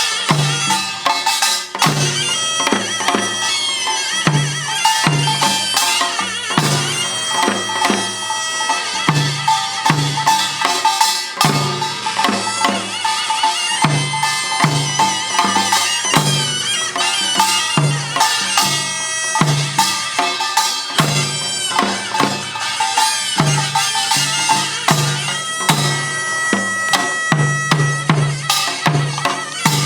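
Korean pungmul band playing: a taepyeongso (Korean shawm) plays a wavering, nasal melody over a steady beat of low drum strokes and rapid metallic strikes of small gongs.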